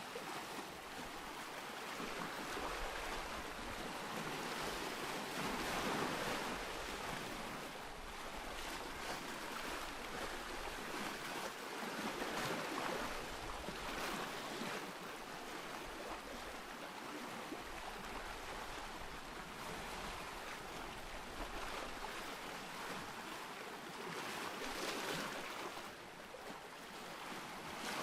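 Ocean surf: waves breaking and washing in a continuous hiss that swells and eases every several seconds.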